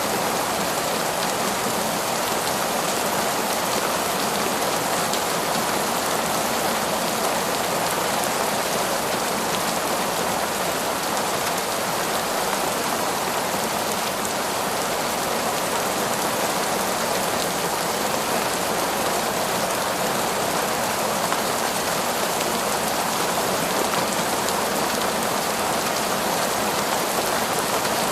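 Heavy torrential rain falling steadily, a constant even hiss of rain with no breaks or thunder.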